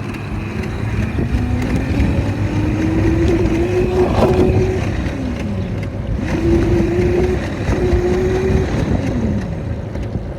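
Small dirt bike engine revving up and holding its pitch, then dropping away, twice.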